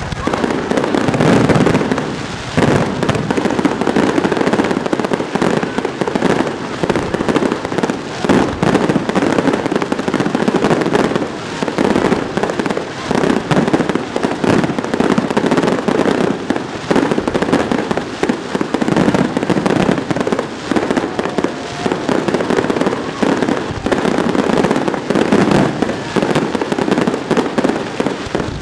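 Fireworks display: a dense, unbroken barrage of rapid bangs.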